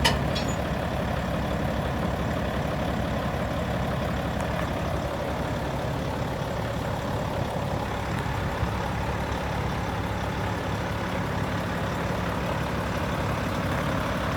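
Volvo FM 13.400 truck's 13-litre six-cylinder diesel idling steadily, with a short sharp click right at the start.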